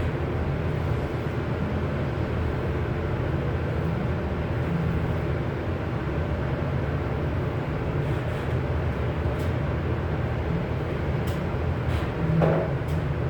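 Steady low mechanical rumble, with a few sharp clicks near the end.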